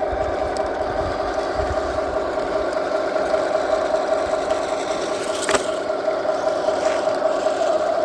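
Radio-controlled scale model truck machinery running with a steady whine, with a single sharp click about five and a half seconds in.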